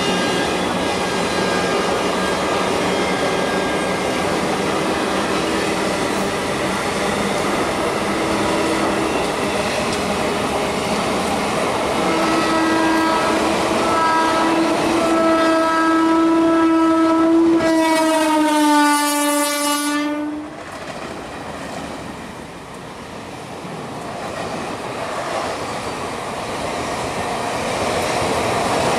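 Indian Railways passenger coaches rolling past with a steady clatter over the rails, while a train horn sounds a long blast from about halfway that slides down in pitch and cuts off about two-thirds of the way through. The running noise then dips and builds again as the second train comes in on the other track.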